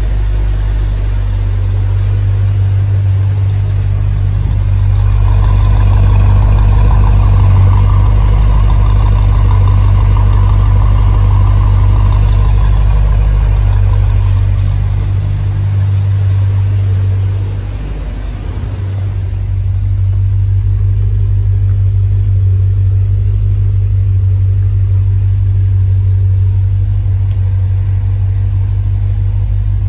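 1976 Corvette Stingray's 350 V8 idling steadily, a deep even rumble. It sounds fuller and brighter for a stretch in the first half and dips briefly a little after halfway.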